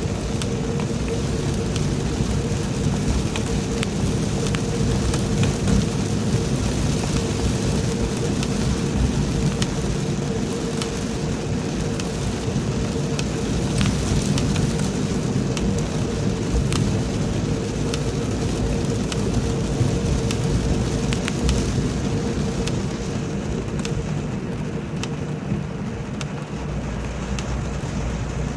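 Heavy rain pouring down, a steady rushing noise with many scattered sharp drop hits, over a low rumble and a steady hum.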